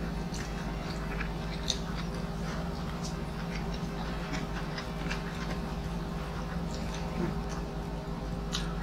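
Quiet chewing with scattered small wet mouth clicks from people eating by hand, over a steady low hum.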